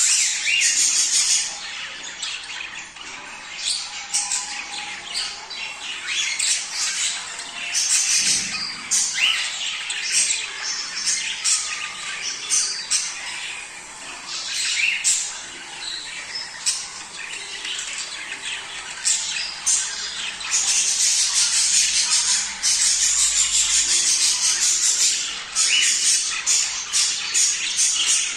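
Budgerigars chattering and squawking with rapid overlapping chirps, the kind of breeding-season calling played to pet birds to stimulate mating. The calling gets denser and louder about two-thirds of the way through.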